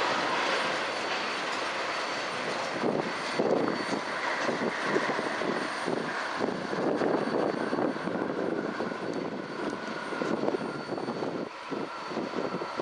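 Freight train of tank cars rolling along the rails: a steady rushing rumble of wheels on track with a faint high whine drifting slowly down, easing slightly near the end as the last cars pull away.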